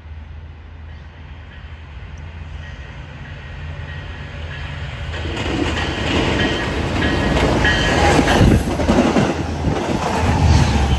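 Long Island Rail Road train approaching and passing close by, growing steadily louder over several seconds, then a dense rush of rail noise with rapid clacking of wheels over the rails.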